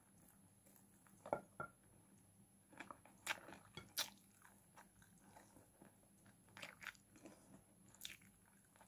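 Faint close-up eating sounds of a person chewing chicken and rice eaten by hand: soft mouth and lip smacks with scattered sharp clicks at irregular intervals.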